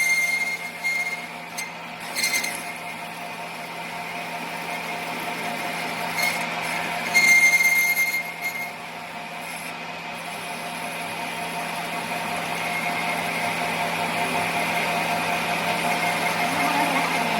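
A machine running steadily with a hum and fixed tones, with a high metallic squeal near the start and a louder one about seven seconds in.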